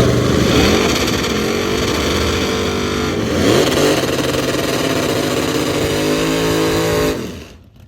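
A racing engine running loud at high revs. Its pitch drops about a second in, dips and climbs again around three seconds in, then holds steady until the sound stops suddenly near the end.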